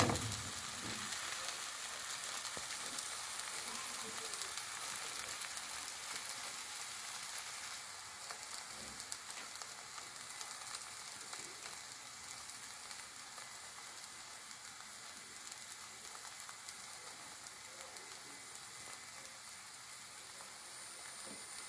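Vegetable batter flatbread frying in oil in a pan, its second side cooking just after the flip: a steady sizzle that eases off a little over time.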